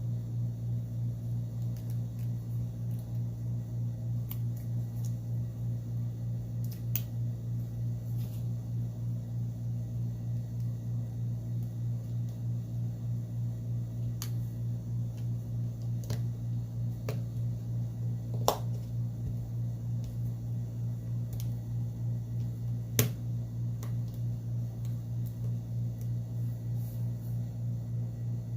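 Small sharp clicks of smartphone parts and tools being handled and snapped into place, a handful scattered through, two of them louder past the middle, over a steady low hum with a regular pulse.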